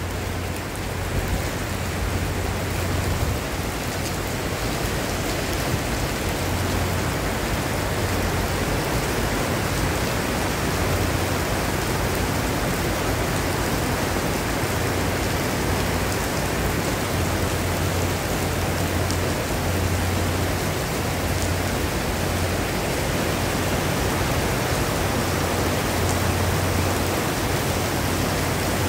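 Heavy rain pouring steadily onto paving, grass and trees, a dense even hiss, with a low rumble coming and going every few seconds.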